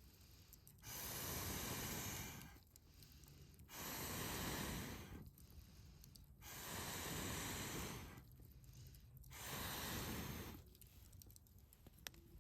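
A person's breath blowing out in four long, even puffs, each about a second and a half, with short pauses to draw breath between them.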